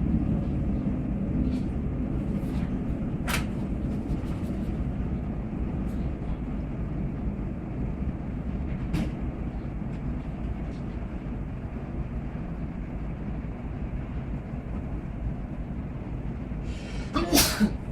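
Jet engine noise from the Blue Angels' F/A-18 Hornets as a steady, muffled rumble, heard through window glass, slowly fading. A few faint clicks, and a brief loud noise near the end.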